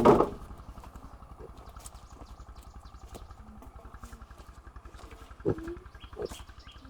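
A small engine running steadily with an even low throb. There is a short loud sound right at the start and a brief pitched call about five and a half seconds in.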